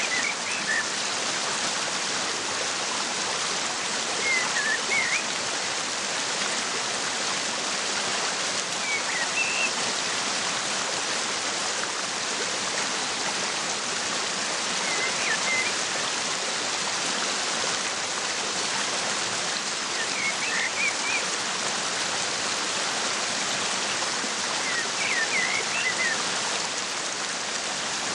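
Waterfall rushing steadily, with short groups of bird chirps about every five seconds.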